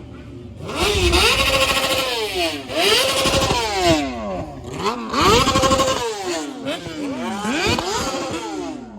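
A car engine revved hard and let fall about four times in a row, each rev climbing quickly and dropping back, with a loud hissing rush over the engine note.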